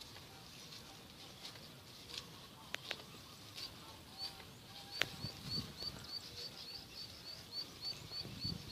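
A small bird gives a quick series of short, high chirps, about three a second, starting around the middle. Over faint outdoor background, with one sharp click about halfway through and a few soft low thuds after it.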